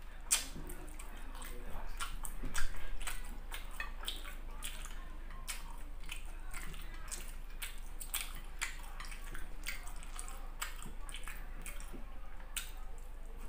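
Close-up wet chewing and lip smacking of a person eating squid and rice by hand, a steady run of irregular sharp, wet mouth clicks with a louder smack about two and a half seconds in.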